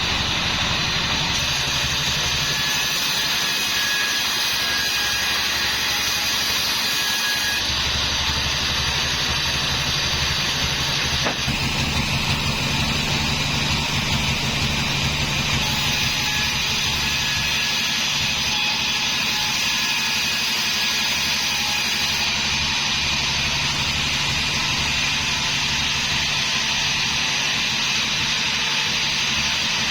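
Homemade band sawmill running steadily: a low engine drone under a constant high hiss, shifting slightly in tone about 8 and 12 seconds in.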